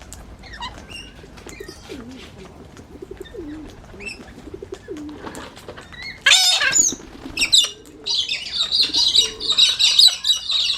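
Faint low warbling bird calls, then a sudden loud flurry of wingbeats about six seconds in and another shortly after as birds fly at the feeding table. In the last few seconds comes a burst of dense, shrill parrot chatter.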